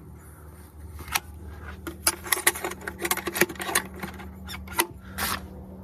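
Scattered clicks and light rattles of things being handled, over a steady low hum.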